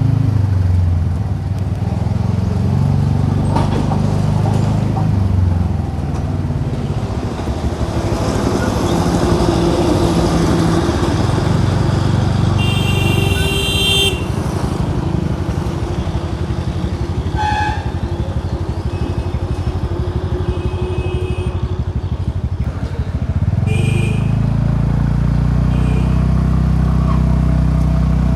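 TVS Ntorq 125 scooter's single-cylinder engine running through its stock exhaust while riding, the note falling and rising with the throttle. Vehicle horns honk briefly in traffic, the longest about halfway through, with shorter ones later.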